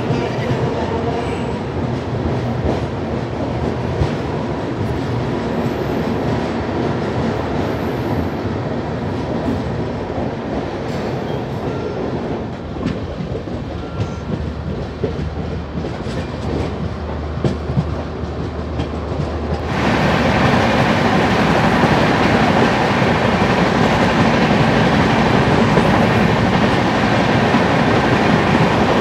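Passenger train running, its wheels clattering over the rails with a steady rumble. About two-thirds of the way through, the sound jumps suddenly louder and brighter and stays that way.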